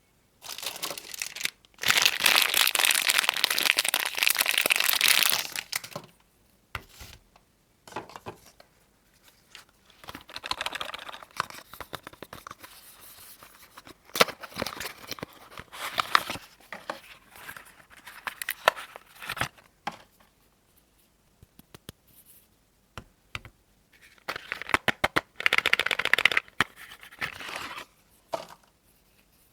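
Soap packaging being torn and crinkled open by hand: a loud stretch of tearing and rustling about two seconds in that lasts some four seconds, then scattered crackles and short rustles, and another loud burst of crinkling a few seconds before the end.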